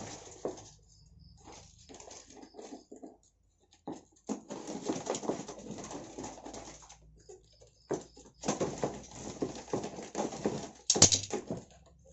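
Irregular bursts of rustling and scrabbling from a box of live wild-caught songbirds being unpacked, with a sharp knock near the end.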